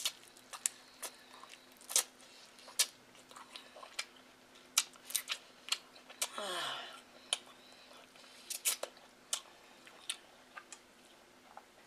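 Close-miked chewing of crab meat: wet mouth clicks and lip smacks come at irregular moments. About six seconds in there is a longer, louder noisy mouth sound that falls in pitch.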